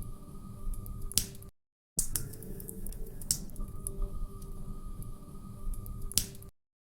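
Log fire crackling: scattered sharp pops and snaps over a steady low rush. The sound cuts out to silence for about half a second after a second and a half, and again near the end, as the recording loops.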